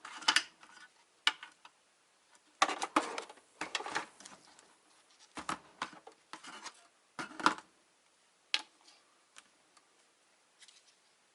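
Clicks and short bursts of clatter from plastic and metal parts being handled, about a dozen scattered knocks over the first eight or nine seconds, then a few faint ticks.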